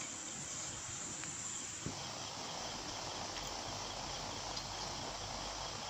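Fish roe frying in oil in a pan: a steady sizzle.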